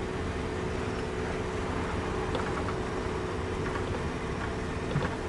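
A vehicle engine running at a steady idle, with a low rumble and an even hum.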